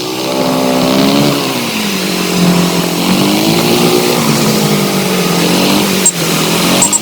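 Motorcycle engine running on the move, its note rising and falling several times with the throttle, over a steady rush of wind and road noise. A couple of short knocks come near the end.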